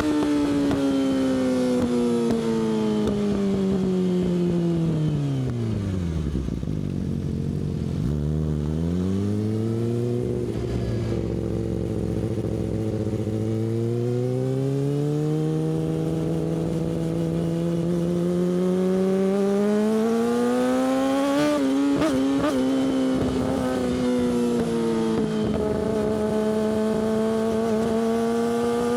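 Yamaha R6 inline-four with an Akrapovic exhaust, heard while riding. The revs fall steadily to near idle over the first seven seconds, then climb again in several stages. There is a brief warble a little past twenty seconds, and then the engine holds steady at a mid pitch.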